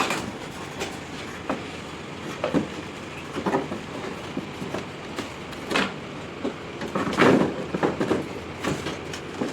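Irregular clanks and knocks of metal being handled and shifted, as the window air conditioner unit is worked on, with the loudest cluster of clatter about seven seconds in.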